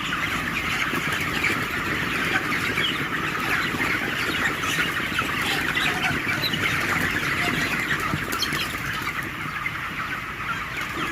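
A large flock of 26-day-old broiler chickens chirping and clucking all at once in a continuous din, over a steady low noise.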